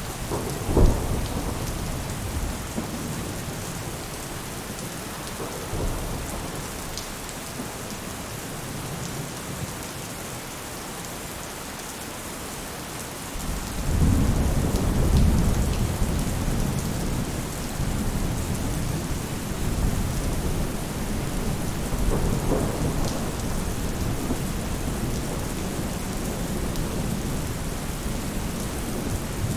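Steady rain falling on a roof, with thunder: a sharp clap about a second in and a long low rumble that builds about halfway through and slowly dies away.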